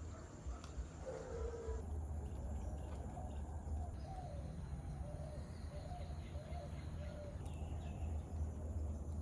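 Birds chirping in a string of short calls over a steady low rumble.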